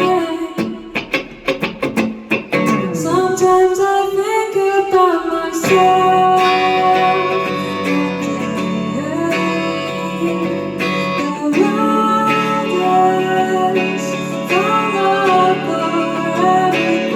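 Live band music: acoustic guitar strummed in quick strokes for the first couple of seconds, then held chords under a gliding sung melody.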